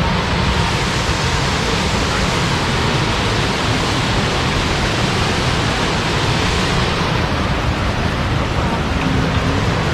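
Loud, steady rushing of the Jukankoski (Belye Mosty) waterfall, with no let-up.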